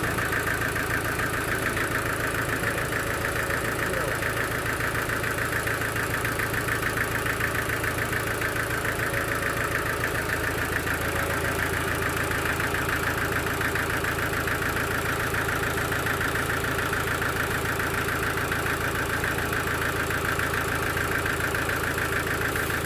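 A sawmill engine running steadily at an even speed, with a fast, regular chugging pulse.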